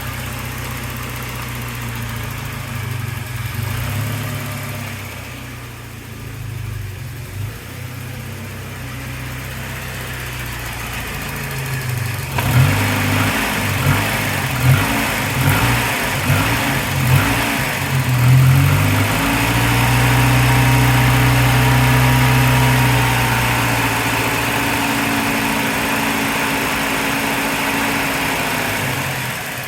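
1988 Saab 900 SPG's turbocharged four-cylinder engine idling while still cold, then blipped about six times in quick succession partway through, then held at higher revs for several seconds before easing back to idle near the end.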